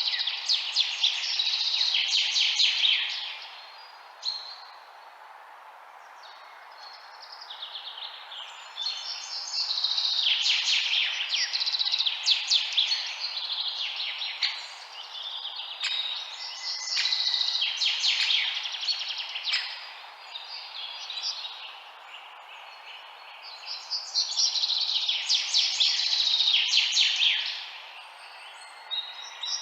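Birds chirping in rapid, dense phrases of a few seconds each, broken by short lulls, over a steady background hiss.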